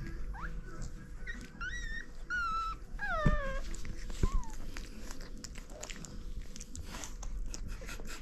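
French bulldog puppies whining in a series of short, high-pitched yelps that bend up and down during the first half. Two knocks come a second apart, and scratchy clicks carry on through the rest.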